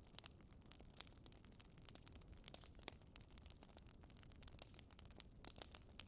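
Wood fire in a fireplace crackling quietly: irregular sharp pops and snaps over a low rumble, with a few louder pops, the loudest about five and a half seconds in.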